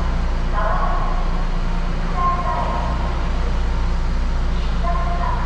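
Steady low hum of a stationary Echizen Railway electric train standing at the platform, heard from inside the car. A few short pitched sounds come over it three times.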